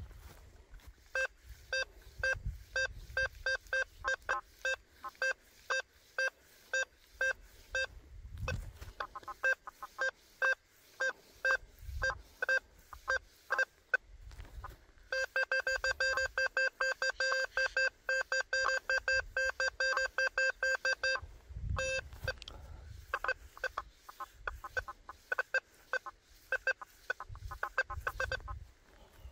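Quest V80 metal detector giving audio target tones: short buzzy beeps, several a second, as the coil passes over buried targets, packing into fast continuous chattering for several seconds about midway.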